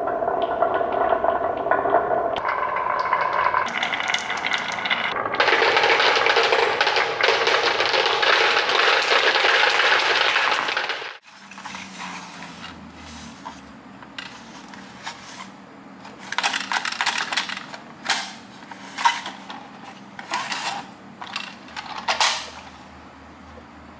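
Marbles clattering along a toy track: a dense, continuous rattle of many small hard clicks that stops abruptly about eleven seconds in, followed by scattered single clicks and clinks.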